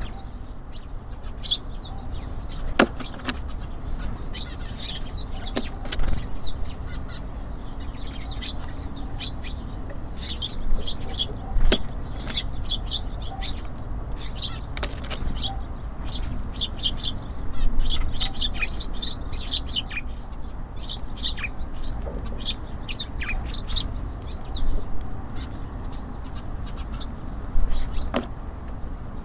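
Small songbirds at a bird feeder, tits and sparrows, giving quick short chirps, busiest through the middle, with a few sharp knocks and a steady low rumble underneath.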